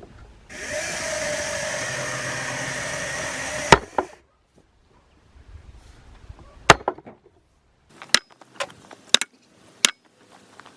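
An axe chopping firewood: a series of sharp, irregular strikes, the loudest two at about four and seven seconds in, then quicker, lighter ones. These follow about three seconds of a steady rushing noise from an unclear source.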